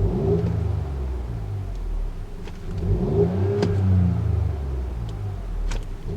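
BMW 118i's 1.5-litre three-cylinder turbo engine and exhaust revved twice, the engine note rising and falling at the start and again, higher, about three seconds in.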